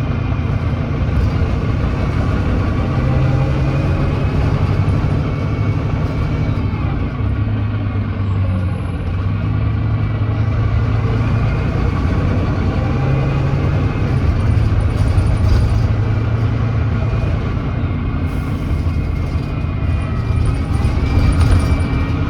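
Volvo D9B 9.3-litre diesel engine of a Volvo B9TL double-decker bus running under way. The bus is known to have an exhaust leak. The engine note rises and falls several times.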